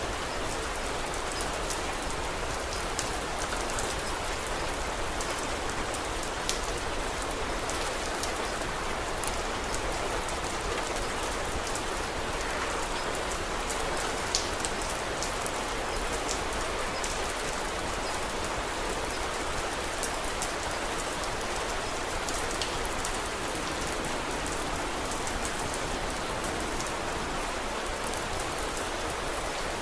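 Steady rain falling, an even hiss with scattered sharp ticks throughout, a couple of them louder, about six seconds in and about fourteen seconds in.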